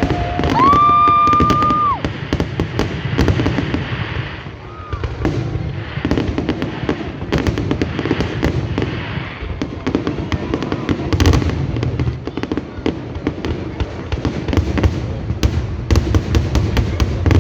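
Fireworks display going off: continuous crackling and popping over low booms, with a high steady whistle for about a second and a half near the start and a sharp bang about eleven seconds in.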